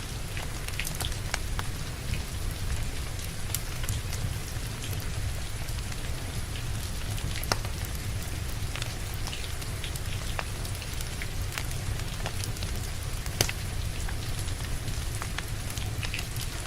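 Steady rain falling, mixed with the crackle of a wood fire: scattered small ticks and snaps, with two louder pops, one midway through and one a few seconds later.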